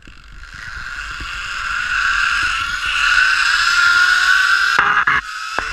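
Zipline trolley wheels running along the steel cable, a whine rising steadily in pitch and loudness as the rider picks up speed, over a rushing hiss. A few sharp knocks come near the end.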